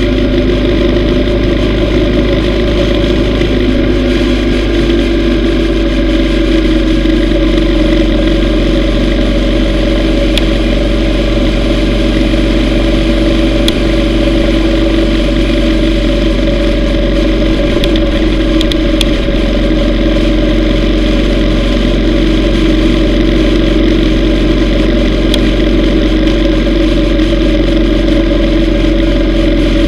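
Yamaha V Star 950 Tourer's air-cooled V-twin engine running steadily as the motorcycle rides along the road, its pitch shifting slightly about four seconds in.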